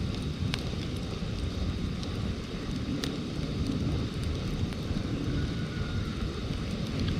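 Wood campfire burning, with a few sharp crackles over a steady low rumble.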